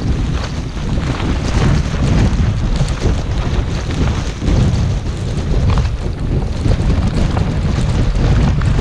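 Gale-force wind buffeting the microphone: a loud, deep rumble that swells and eases with the gusts.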